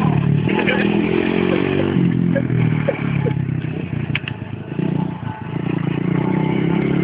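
Dirt bike engine running under way, its revs rising and falling, easing off briefly about five seconds in.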